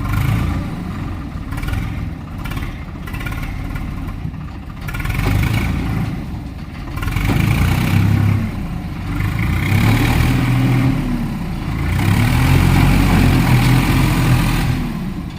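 Diesel engine of a Swaraj 855 tractor revving in repeated surges, its pitch rising and falling several times as the stuck tractor is driven hard to get free.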